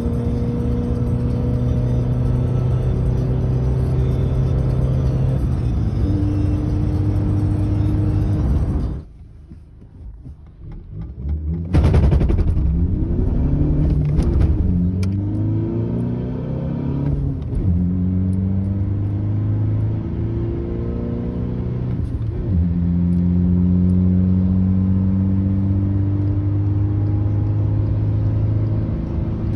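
Straight-piped Volkswagen 1.6 TDI four-cylinder diesel of a Golf Mk6, heard from inside the cabin while driving. A steady drone drops away sharply about nine seconds in. It comes back loud a few seconds later, its pitch climbing again and again as the engine revs up through the gears, then settles into a steady drone.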